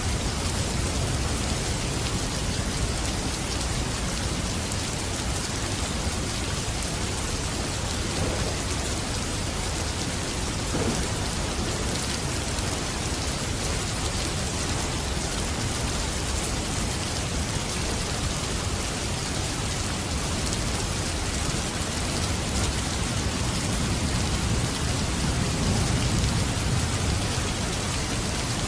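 Steady heavy rain falling, with a low rumble of thunder swelling near the end.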